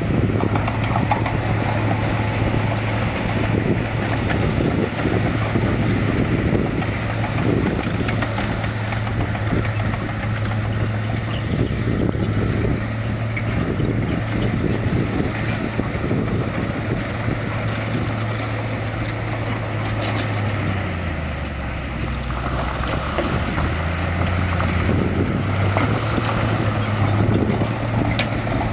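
Komatsu D31A bulldozer's diesel engine running steadily under a constant clatter of tracks and rock. The engine note drops lower for a few seconds after about twenty seconds, then picks back up.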